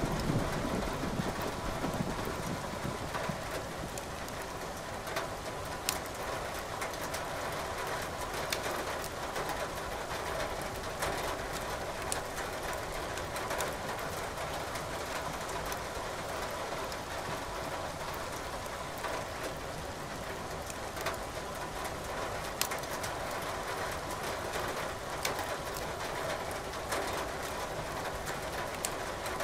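Steady rain with a wood fire crackling in a fireplace: scattered sharp pops over an even hiss. A low rumble sounds in the first couple of seconds.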